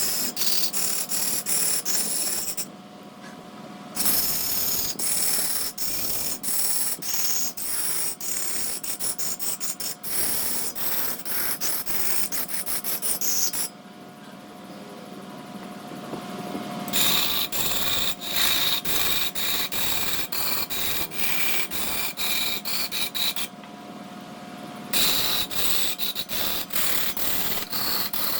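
A large wood lathe spinning a blank while a turning tool scrapes and cuts it, making a rapid train of clicks over a steady hum from the lathe. The cutting stops briefly three times, leaving only the lathe's hum.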